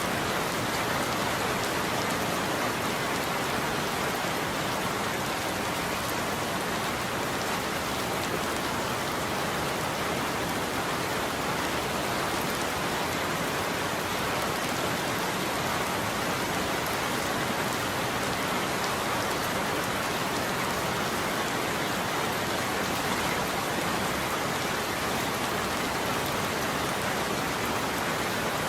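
Steady heavy rain falling, an even hiss with fine drop patter and no thunder.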